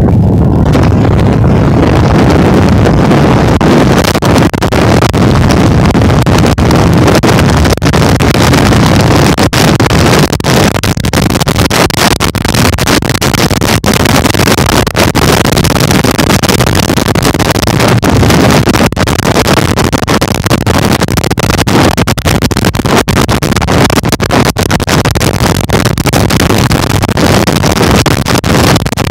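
Loud, steady rushing and buffeting noise from a ride on a bike, typical of wind hitting the microphone at speed. It swells to full strength within the first second.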